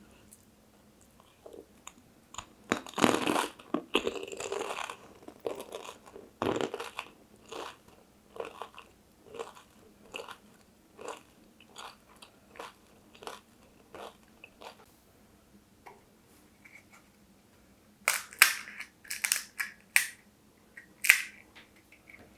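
Close-miked eating of pani puri. The crisp puri shells crunch loudly as they are bitten a few seconds in, followed by a long run of steady chewing, and another burst of loud crunching comes near the end.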